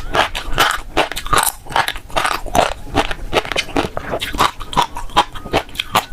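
Close-miked eating of fish roe: quick, irregular crackling pops and wet clicks, several a second, as the roe beads are bitten and chewed.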